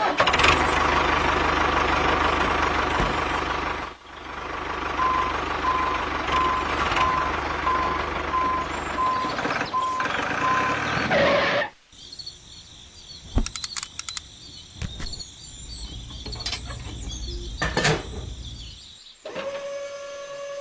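Vehicle running with a reversing alarm beeping at an even pace for about five seconds. The engine noise stops suddenly after about twelve seconds, leaving quieter high tones and a few clicks.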